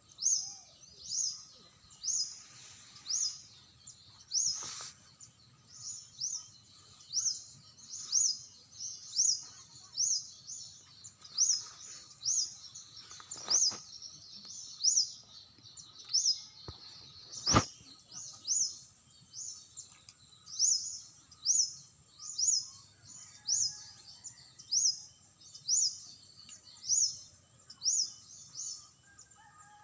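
A bird calling: a short, high, rising chirp repeated steadily about once a second. A few sharp clicks fall in between, the loudest just past the middle.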